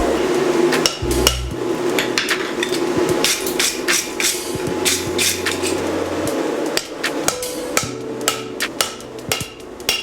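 Hand hammer forging hot 5160 spring steel on an anvil: a run of sharp metal-on-metal blows at an uneven pace of about two to three a second, over a steady rushing background noise that fades about two thirds of the way through.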